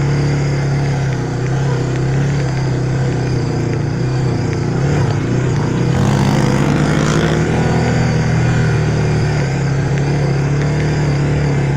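Off-road vehicle engine running steadily at low speed, heard from a camera mounted on the vehicle. About six seconds in there is a brief rise in pitch as the throttle opens.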